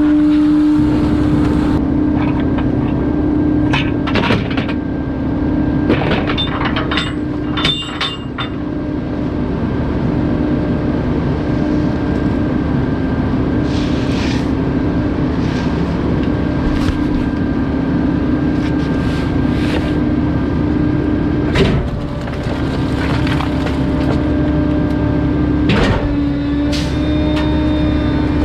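Garbage truck compacting bulky waste: a steady, non-stop hydraulic hum under the rumble of the compactor, with scattered cracks and snaps as items break, a cluster of them about a quarter of the way in and single ones later.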